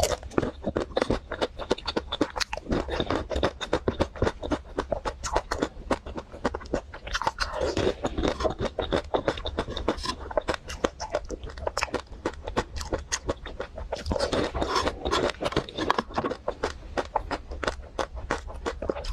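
Close-miked eating of a chocolate-coated ice cream bar: the hard chocolate shell crunching and crackling with dense, rapid clicks as it is bitten and chewed.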